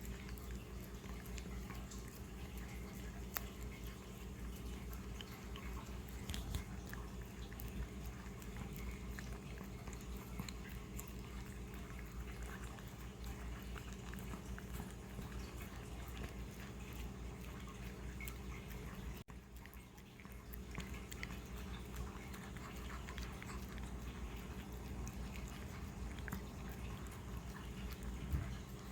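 Puppy licking and chewing peanut butter off a spoon: faint, scattered wet smacks and little clicks over a steady low hum.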